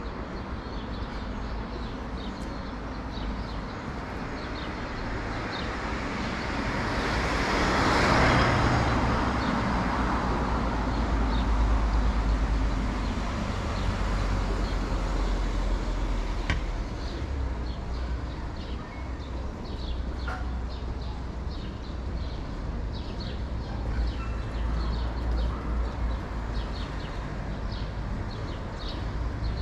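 Bernina Express train rolling along, a steady low rumble of wheels and running gear with a rushing swell that peaks about eight seconds in and then eases off.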